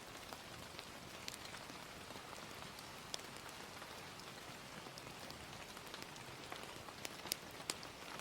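Ambient track of steady, gentle rain, with a few sharp crackles and pops of a wood fire scattered through it; the loudest come in a quick cluster near the end.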